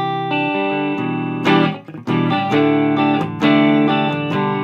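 Gibson Les Paul electric guitar played through a Mesa Boogie Dual Rectifier's clean channel, set to spongy power and tube rectification, into a Marshall 1960A 4x12 cab. Chords ring and sustain. Fresh chords are struck about one and a half seconds in and again around two and a half and three and a half seconds in, with a short break near two seconds.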